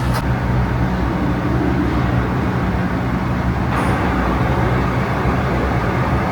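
Steady low rumble and hum of a motor vehicle running, with a brief faint hiss about four seconds in.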